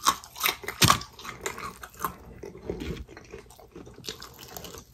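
Close-up biting and chewing of crispy fried chicken, the breading crunching in short crackles, the loudest about a second in.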